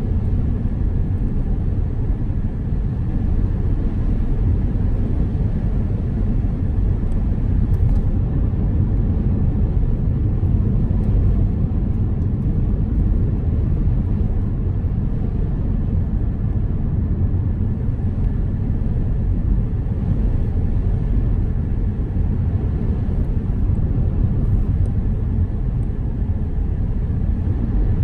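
Car driving in the rain: steady low rumble of tyres and engine, with faint scattered ticks of rain.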